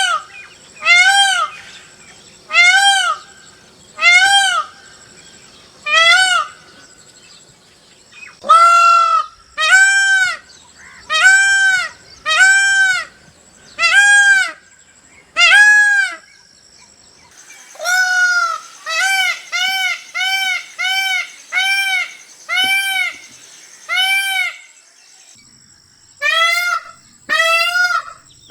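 Indian peafowl (peacock) calling: a long series of loud, separate calls, each rising and then falling in pitch. They come about one a second with short pauses between groups, and there is a quicker run of shorter calls in the middle.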